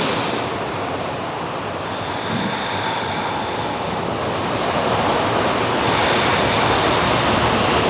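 Ocean surf washing on a beach: a steady rushing noise that swells a little about halfway through, with a brief sharp hiss at the very start.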